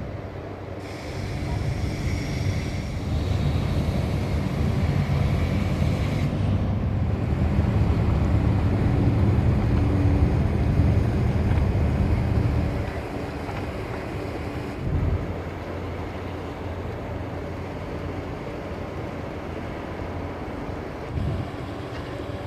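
Passenger ferry under way: a low engine drone with wind rushing over the microphone and water noise. It is louder for the first twelve seconds or so, then eases to a steadier, quieter drone.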